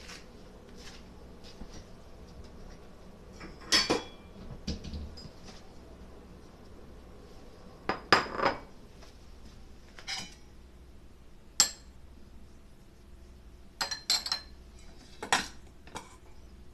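Scattered metallic clinks and clanks of metal ware being handled and set down, about a dozen separate knocks with quiet between, the loudest about 4 and 8 seconds in.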